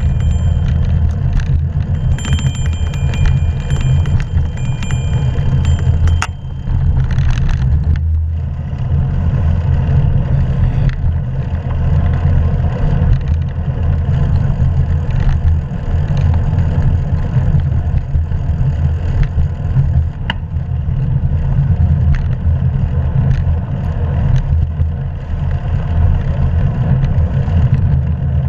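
Steady low rumble of wind and road noise on a camera mounted on a moving bicycle, with a few faint clicks.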